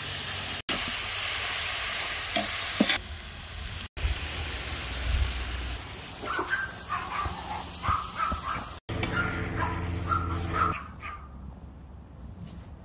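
Shredded beets and carrots sizzling in a hot cast-iron cauldron over a wood fire, with a spoon stirring them in; the loud sizzle cuts off after a few seconds. Quieter stretches follow with a few short, higher-pitched sounds.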